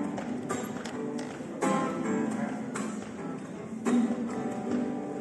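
Acoustic guitar strumming chords, a sharp stroke roughly every second, as the instrumental introduction to a song.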